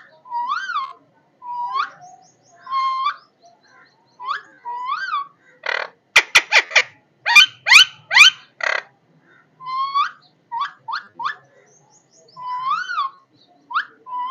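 A parrot calling: short whistled calls, each rising and then falling, repeated about once a second, with a run of louder, harsher rapid calls in the middle.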